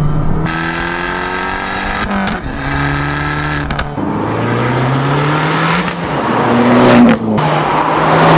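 Tuned, turbocharged Fiat 500 Abarth 1.4 T-Jet four-cylinder engine accelerating hard in sport mode. Its pitch climbs and drops at each gear change several times, and it is loudest near the end.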